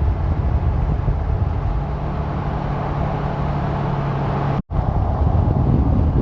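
Road noise of a moving vehicle with a steady low engine hum. It breaks off for an instant about four and a half seconds in, then continues as rougher low rumble without the hum.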